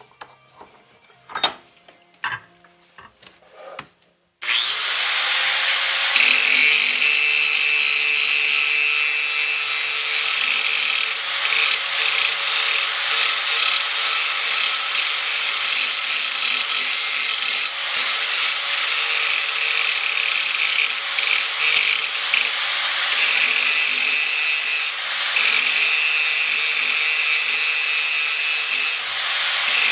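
A few light knocks, then about four seconds in a power tool starts up and runs steadily, cutting into steel plate with a harsh, continuous grinding noise over its motor's steady whine.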